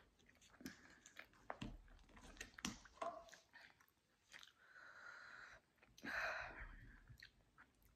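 Faint close-up chewing and mouth clicks of someone eating jerk chicken and rice. Just after six seconds a spoon scrapes through the rice on the plate.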